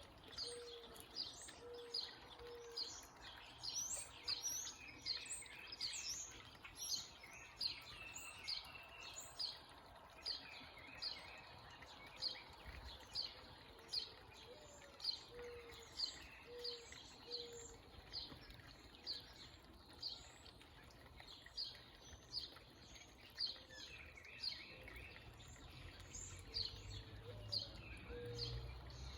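Backyard birds calling: a small bird chirping over and over, about twice a second, with a low cooing of four or five notes in a run, heard three times.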